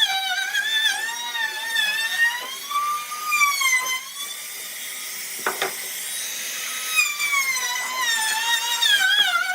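High-speed power tool whining as it cuts wood, its pitch sagging and recovering as it is pressed into the work. A sharp click is heard about five and a half seconds in.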